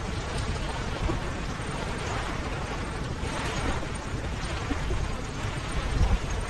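Ocean waves: a steady wash of surf over a deep low rumble, swelling as a wave breaks about halfway through.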